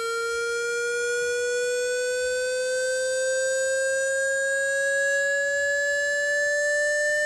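Synthesized electronic tone for ejecting water from a phone speaker, held continuously and gliding slowly upward in pitch.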